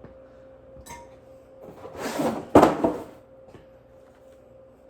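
Unboxing packaging being handled: a short rustling scrape about two seconds in, then a sharp knock, as parts are lifted out of the box and set down. A faint steady hum runs underneath.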